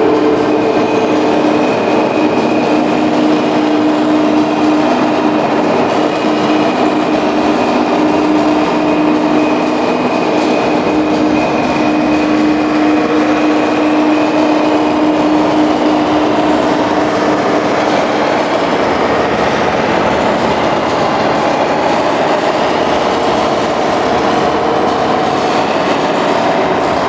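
Loud, steady mechanical rumble of a running vehicle, with a held tone through roughly the first two-thirds.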